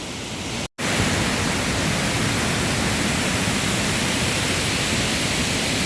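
Waterfall: a steady, loud rush of falling water. It cuts out for a moment under a second in, then comes back louder.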